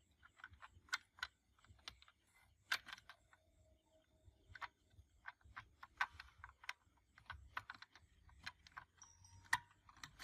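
Faint, irregular light clicks and taps of small parts and hand tools being handled, a few a second, with no steady machine sound.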